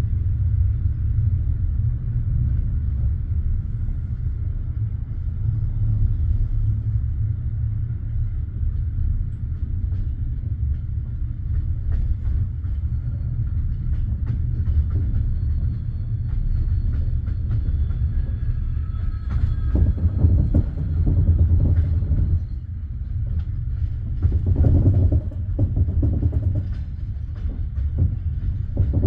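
Passenger train carriage rumbling along the track, with scattered wheel clicks, heard from inside the carriage. The rumble swells louder twice, about two-thirds and about five-sixths of the way through.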